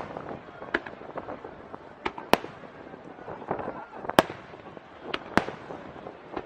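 Aerial fireworks shells bursting: about seven sharp bangs at irregular intervals, the loudest just past four seconds in.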